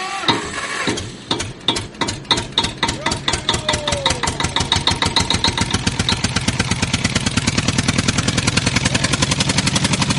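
Small machine clicking in a regular rhythm, slow at first and speeding up steadily into a fast, even rattle.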